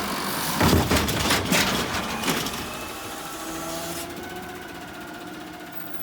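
Garbage truck at work: clattering knocks for the first two seconds or so, then the truck's engine and machinery running with a steady hum.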